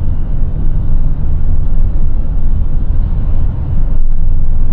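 Steady low rumble of a small box truck's engine and road noise, heard from inside the cab while driving.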